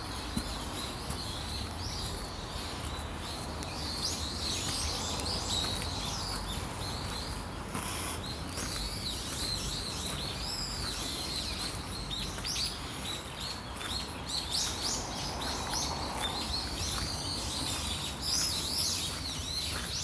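Small songbirds chirping, many short high calls overlapping, over a steady low background noise. The chirping is busiest in the second half.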